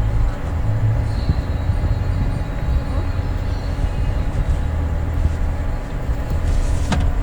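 A Kia Pride's carbureted four-cylinder petrol engine running steadily at idle on a newly fitted mechanical fuel pump.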